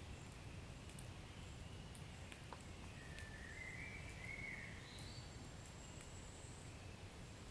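Wood fire burning in a fireplace at low level: a steady low rumble with a few sparse crackles. About three to five seconds in, faint high wavering chirps or whistles rise above it.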